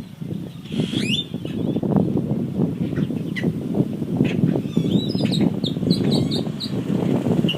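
Birds calling: a dense, rough low clamor throughout, with higher chirps over it, among them a quick even run of about six short chirps in the second half.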